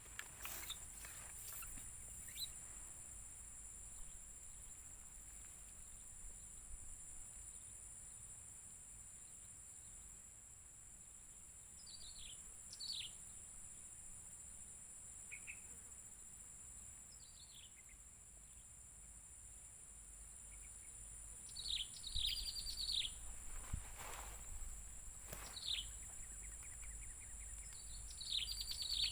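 Swamp ambience: insects drone steadily at a high pitch while birds give short downward-sweeping chirps, a few in the middle and a flurry in the last seven seconds. A few sharp knocks come near the start and again about 24 seconds in.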